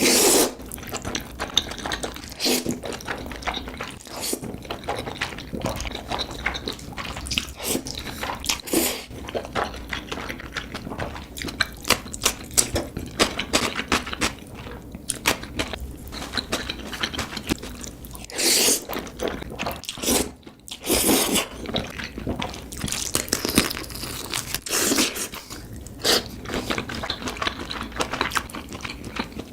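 Close-up eating sounds of black bean noodles: steady wet chewing and mouth smacks, with several louder, longer bursts scattered throughout.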